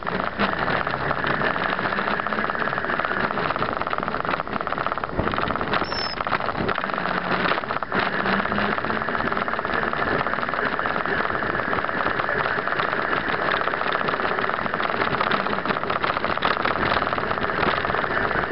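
2008 Suzuki B-King's Hayabusa-derived inline-four engine running steadily, a continuous rapid firing pulse with no clear rises or falls.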